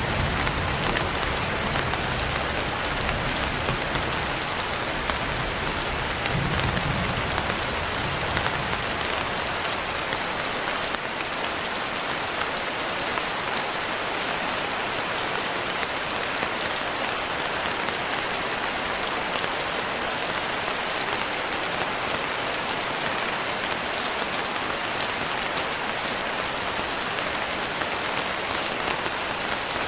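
Steady rain falling, an even continuous hiss, with a low rumble of distant thunder fading out in the first second and a brief faint rumble again about six seconds in.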